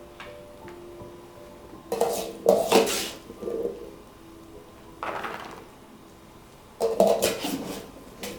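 Kitchenware being handled: dishes and utensils clinking and knocking in three short clusters, over soft background music.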